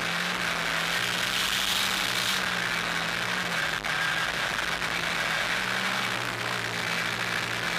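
Off-road 4x4 engine idling at a steady low hum, with a steady hiss over it.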